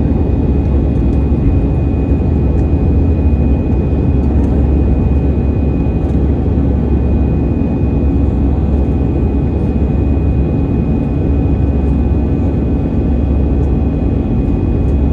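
Steady cabin noise of an Airbus A319 climbing after takeoff: an even low rumble of the jet engines and airflow, with a faint steady high whine above it.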